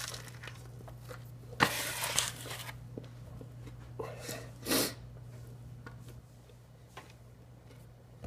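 A man eating a cold burger: quiet mouth and chewing noises with a few small clicks, broken by two short hissing bursts, one about a second and a half in and a shorter one near the end of the fifth second, over a steady low hum.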